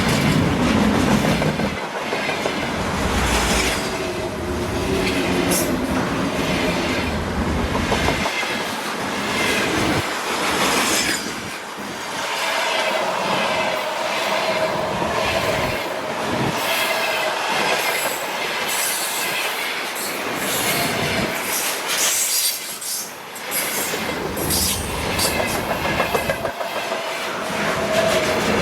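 Freight train wagons rolling past, their wheels clattering over the rail joints, with a squeal of wheels on rail that comes and goes.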